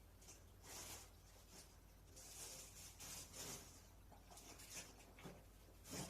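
Faint scrubbing and rustling noises with a few light knocks, from work on an air conditioner during cleaning.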